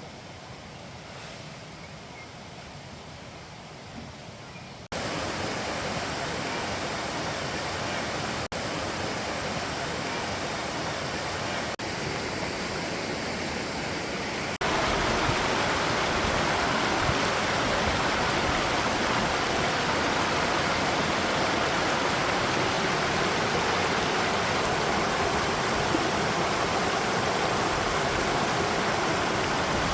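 Stream water rushing steadily. It gets louder in two steps, about five seconds in and again about fifteen seconds in.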